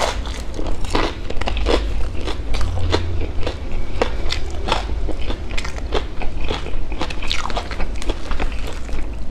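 Close-miked biting and chewing of a crispy battered fried banana fritter (bánh chuối chiên). A crunchy bite at the start, then many irregular crackling crunches as the crisp shell is chewed.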